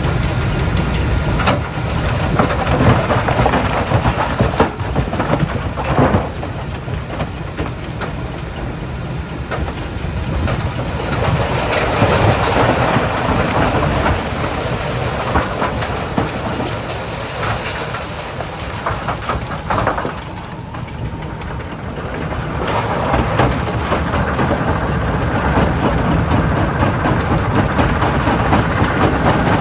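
Heavy machinery at a stone crushing plant, with rock being handled and crushed: a steady low rumble under a dense rattling clatter, with a few sharp knocks. It drops a little about two-thirds of the way through, then builds again.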